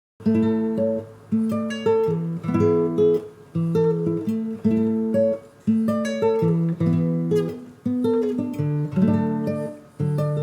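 Acoustic guitar music, plucked notes and strummed chords in a steady rhythm, starting a fraction of a second in.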